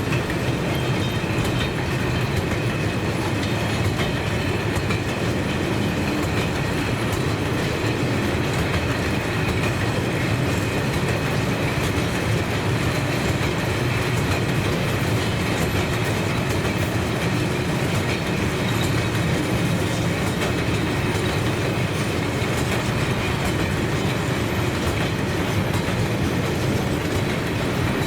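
Train rolling past on the rails, its wagons making a steady, continuous rolling noise.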